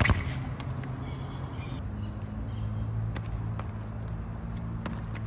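A football kicked hard with a sharp thud, followed by scattered taps and knocks of play on a small outdoor court. Short high-pitched bird calls come twice, over a low steady hum.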